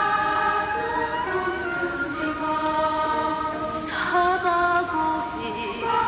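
Background music: a choir of voices singing long, held notes that move slowly from pitch to pitch.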